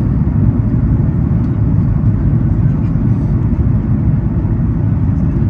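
Cabin noise of a Boeing 737 MAX 8 rolling out after landing: a steady low rumble of the engines and the wheels on the runway.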